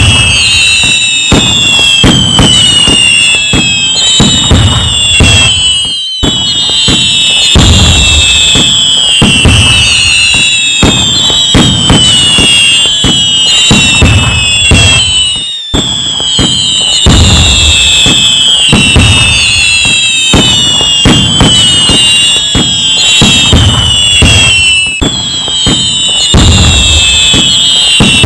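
Dense fireworks barrage: a continuous run of bangs and crackles, overlaid with many whistling rockets whose pitch falls as they fly.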